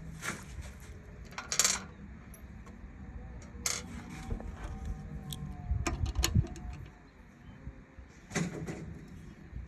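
Scattered clicks, taps and light metallic rattles of small hard parts being handled, with a low steady hum underneath.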